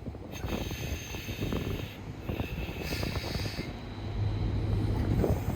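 Tractor-trailer engine running at low speed, a steady rumble that grows louder near the end, with stretches of hiss over it.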